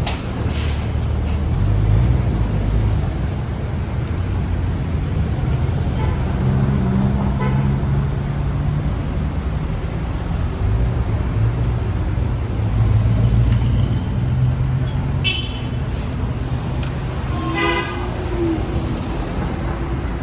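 City street traffic: motor vehicles running past with a steady low rumble, and a car horn tooting briefly about three-quarters of the way through.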